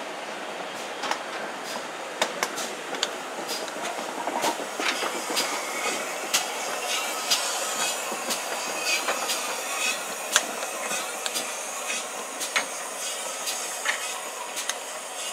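Passenger train running past on the track, a steady rush with many sharp, irregular clicks and clacks from the wheels over the rails.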